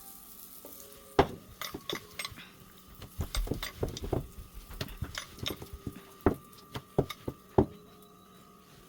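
Metal kitchen utensils clinking, tapping and scraping against a pan and dishes: a string of irregular sharp clicks and knocks from about a second in, stopping a little over a second before the end.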